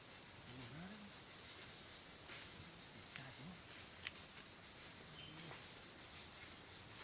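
Faint forest insect chorus: a steady high-pitched buzz, with a second chirring call pulsing about four or five times a second. A single sharp click about four seconds in.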